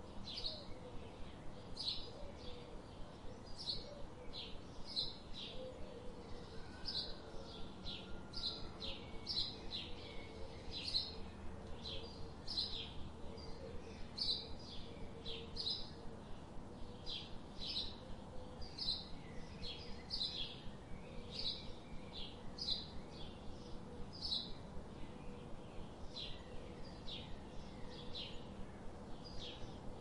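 A bird chirping over and over: short high chirps repeated steadily, about two a second, over a faint steady background hum.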